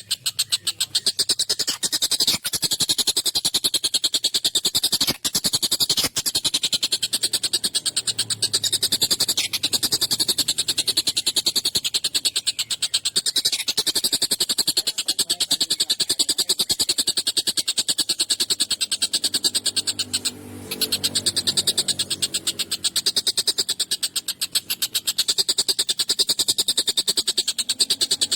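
Tengkek buto (collared kingfisher) giving harsh, rapid chattering calls that run almost without pause, with a short break about twenty seconds in.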